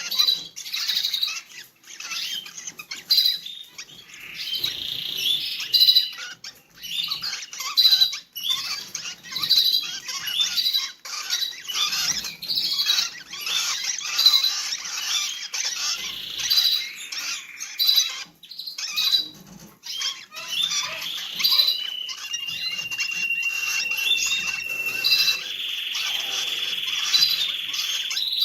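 Rosy-faced lovebirds chirping and squawking in quick short high calls, with a steady high-pitched call held through the last several seconds.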